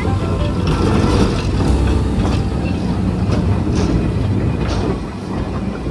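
Tram rolling along its rails: a steady low rumble with a few scattered clicks from the wheels.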